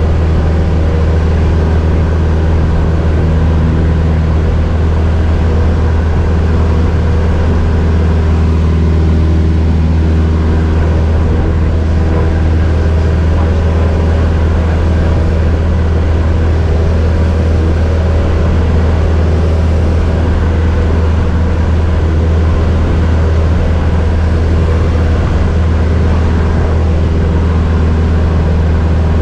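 Cessna 172's piston engine and propeller running steadily, a constant deep drone with an unchanging pitch.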